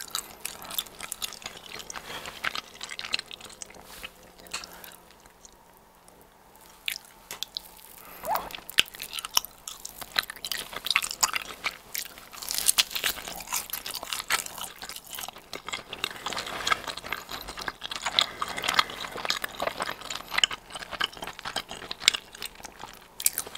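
Close-miked chewing and biting of a giant cheese ball made from donut-mix dough with cheese inside: the crust crunching between the teeth, with wet mouth sounds. Quieter for a few seconds in the first third, then steady, busy chewing.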